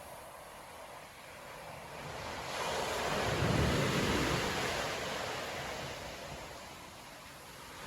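Surf from a stormy winter sea: a breaking wave swells up about two seconds in, crashes with a deep rumble around the middle, then washes out and fades, with the next wave building near the end. Wind buffets the microphone.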